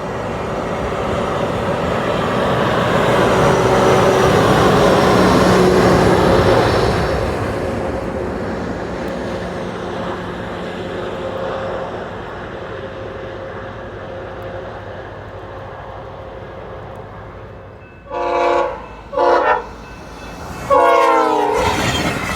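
Siemens Charger locomotive-hauled passenger train passing at high speed: a rolling rush of wheels and engine that builds to a peak, then fades. Near the end a train horn gives two short blasts and then a longer one that falls in pitch.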